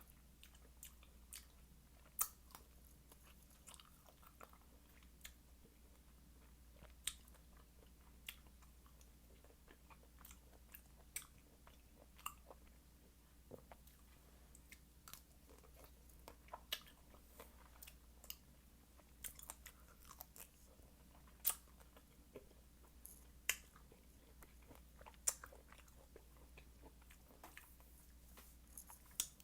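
Close-miked chewing of fresh fruit: quiet, wet mouth sounds with irregular sharp clicks and small crunches, a few seconds apart, over a low steady hum.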